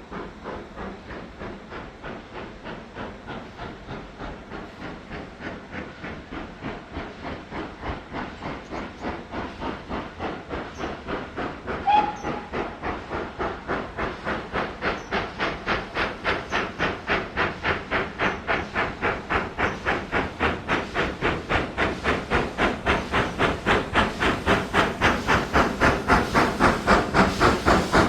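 Steam locomotive working under power, its exhaust beats steady and rhythmic and getting steadily louder as it approaches. A brief whistle note sounds about twelve seconds in.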